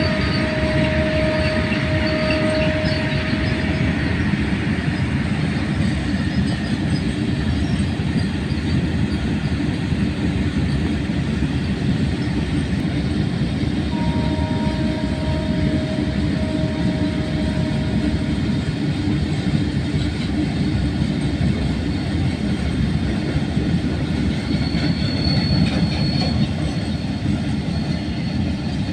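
An Indian train running through at speed with a steady rumble of wheels on the track. The locomotive horn sounds twice, for about four seconds near the start and again about 14 seconds in.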